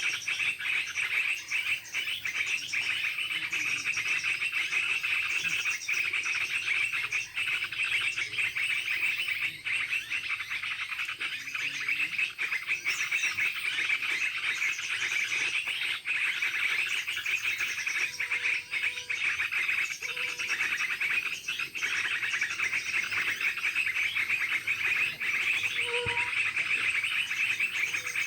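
Dense, steady chorus of chirping insects and frogs, with bird chirps mixed in. A few short, low whistles come about two-thirds of the way through and again near the end.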